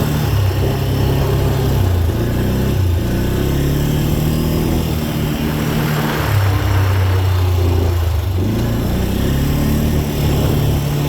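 Dirt bike engine on the throttle, its pitch rising and dropping repeatedly with throttle and gear changes.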